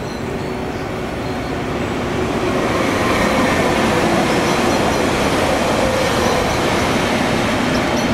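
Electric multiple-unit commuter train passing along the line, the steady rumble of its running gear on the rails growing louder about two and a half seconds in as it draws level.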